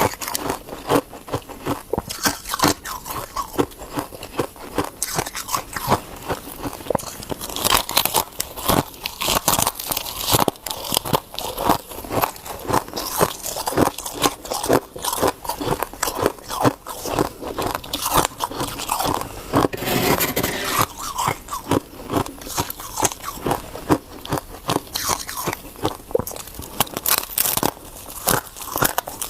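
Ice being bitten and chewed close to the microphone: a dense, irregular run of sharp crunches and crackles, several a second.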